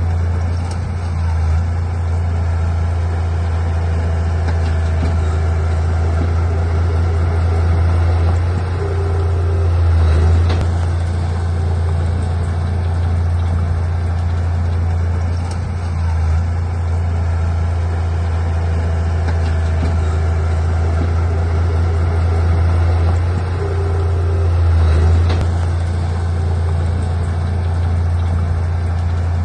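Heavy diesel engine of earthmoving machinery running steadily with a deep, even drone. It swells slightly about ten seconds in and again about twenty-five seconds in.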